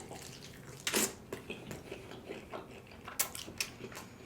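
Close-miked eating of KFC fried chicken: a crunchy bite about a second in, then wet chewing with crisp crackles, a few sharper crunches around three seconds in.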